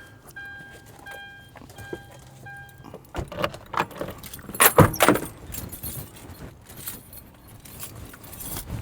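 A repeating electronic beep, about twice a second, over a low hum, both stopping about three seconds in. Then metal clinks and rattles of keys and tools being handled, loudest around the middle.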